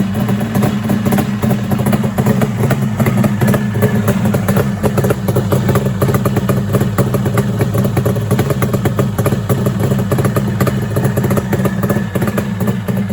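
Kawasaki 750SS's air-cooled two-stroke triple running steadily with a crackly exhaust, on its first run after sitting unused for several months.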